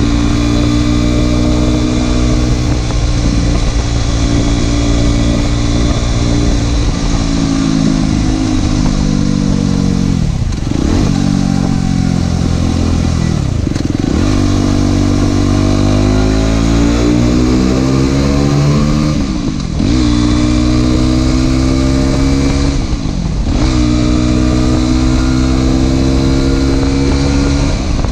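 Aprilia SX 125's single-cylinder 125 cc four-stroke engine running loud through an Arrow exhaust with the dB killer removed. It holds fairly steady revs, with about four quick drops in pitch that climb straight back, like gear changes or throttle blips, and one longer steady climb in revs.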